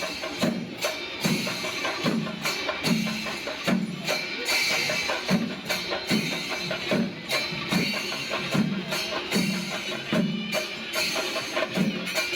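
Kerala temple percussion ensemble (chenda melam): chenda drums beating densely and fast over the continuous clash of ilathalam cymbals, with a deeper beat about every two-thirds of a second.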